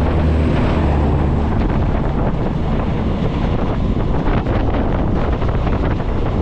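Two trains passing each other on adjacent tracks, heard from an open coach doorway: a steady rush of wind on the microphone and the rumble and clatter of wheels on rail. A low engine hum in the first second and a half as the passing train's louvred power car goes by.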